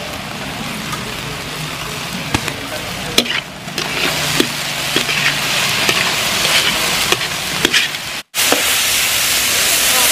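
Chicken pieces sizzling as they fry in a pan, with a spatula scraping and knocking against the pan about six times while stirring. About eight seconds in, the sound cuts to a louder, steadier hiss.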